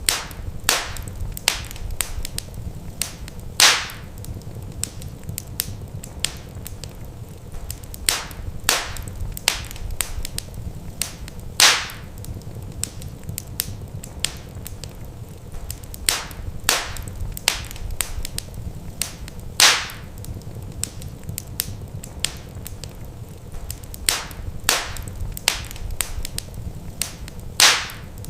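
Wood fire in a fireplace crackling: scattered sharp pops and snaps over a steady low rumble, with a louder pop about every eight seconds.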